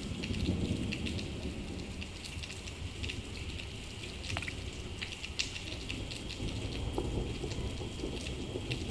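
Steady rain falling, with many sharp taps of individual drops hitting a surface over a low, steady rumble.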